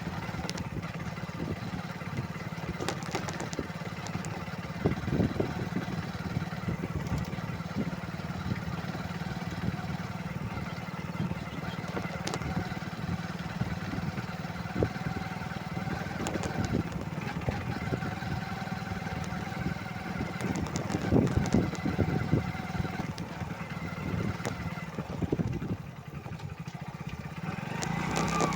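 Motorcycle engine running steadily while riding, with irregular knocks and clatter throughout. The sound drops briefly near the end.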